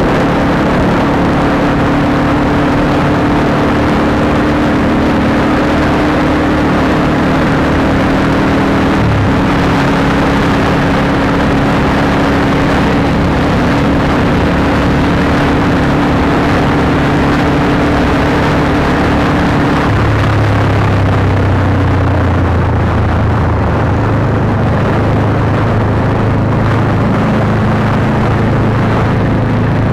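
Honda CBR150R single-cylinder engine running through an aftermarket Akrapovic exhaust while riding at steady revs, with rushing noise behind it. Its note shifts about nine seconds in and drops to a lower pitch about twenty seconds in.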